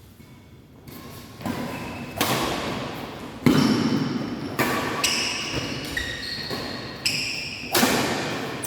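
Badminton rally: rackets striking the shuttlecock in a string of sharp hits, about one a second, starting about a second in, each hit echoing in a large sports hall.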